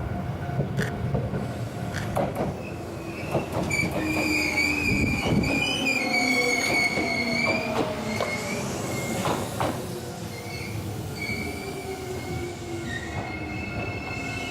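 Shizuoka Railway 1000-series electric trains running past. The wheels squeal in high, wavering tones through the middle and again near the end, over a rumble with sharp clicks from the rail joints and a lower whine that slides down in pitch.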